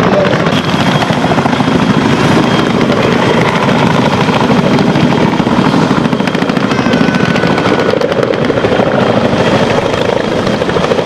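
Tandem-rotor CH-46 Sea Knight assault helicopters flying close, with a loud, steady, fast rotor chop.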